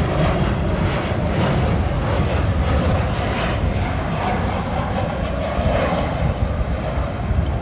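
Jet airliner engines, a loud, steady rumble with no sudden changes.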